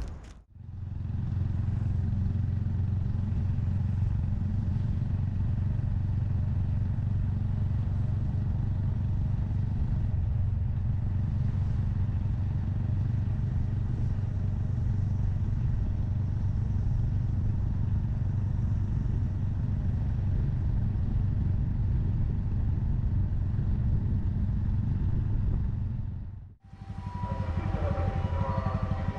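Honda Monkey 125's single-cylinder engine running steadily while riding, a constant low hum. It drops out briefly near the start and again near the end, then comes back with some higher whining tones.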